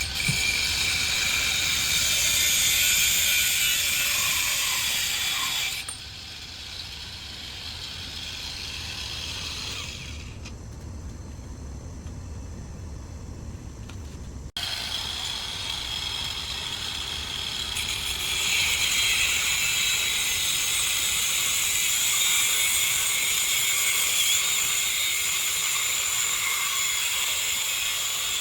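Pole-mounted angle grinder running and grinding, a loud, dense hiss that comes in several abruptly cut stretches. It drops to a duller, quieter sound for a few seconds in the middle, then grows louder again toward the end.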